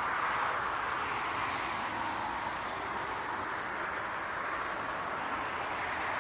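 Jet airliner engines making a steady rushing noise that eases a little midway and swells again near the end.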